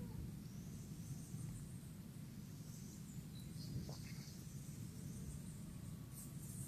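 A steady, faint low rumble, with a few small birds chirping high and faint over it, a short cluster of chirps about halfway through.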